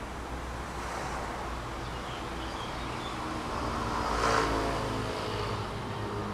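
A road vehicle passing by, growing louder to a peak about four seconds in and then fading, over steady outdoor background noise.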